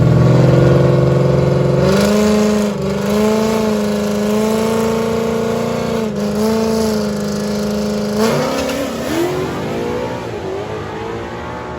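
Car engine at wide-open throttle on a drag-strip pass, holding a steady high note that steps with gear changes about two, six and eight seconds in, then wavers and fades as the car pulls away down the track.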